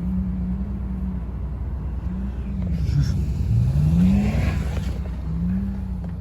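Car engine revving as the car is drifted in snow. The pitch rises and falls, then climbs sharply to a peak about four seconds in, with a rush of hiss alongside the climb.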